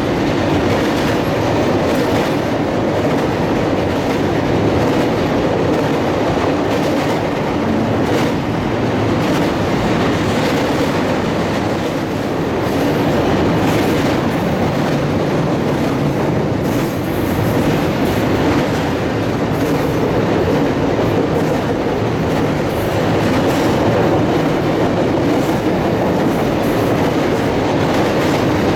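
Freight train cars rolling steadily past, their wheels clicking over the rail joints.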